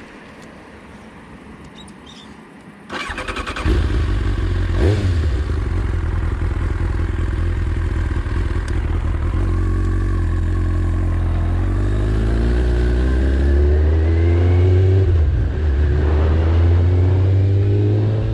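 Motorcycle engine that comes in loudly about three seconds in after a brief rapid clatter, then runs with a deep rumble. Its pitch rises several times in the second half as it accelerates.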